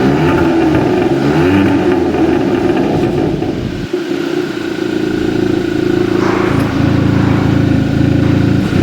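Exhaust note of a Hyundai Tucson TL fitted with a Veloster N Performance exhaust, the engine revved up and down in the first half, then held at a steady speed from about halfway, picking up again at the very end.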